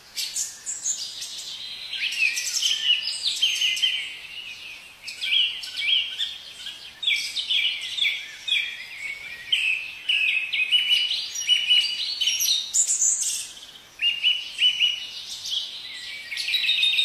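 Songbirds chirping in quick runs of short, high notes, with a couple of brief lulls.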